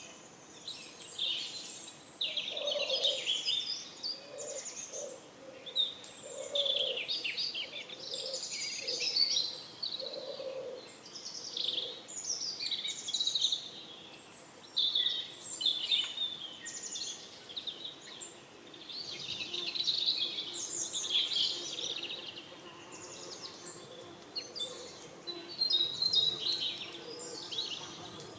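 Small birds chirping continuously in a busy chorus, with low pigeon coos in the first ten seconds or so.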